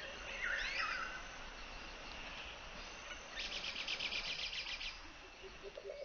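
Nature ambience with bird calls: a couple of swooping whistled calls near the start, then a fast pulsing trill of about nine pulses a second lasting about a second and a half midway, over a steady background hiss.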